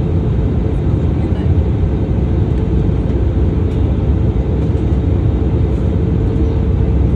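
Airbus A320-family jet's cabin noise in flight on approach: a steady, loud low rumble of engines and airflow, with a faint steady hum running through it.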